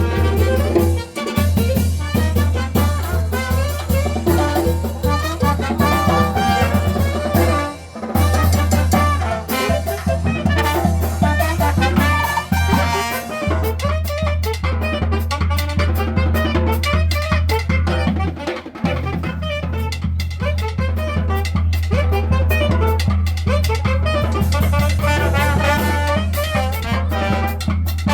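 A marching brass band playing live, horns over a steady drum beat, with a couple of short breaks in the playing.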